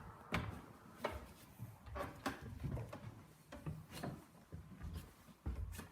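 Irregular light knocks, clicks and rustles of things being handled, about one or two a second, with no steady machine sound.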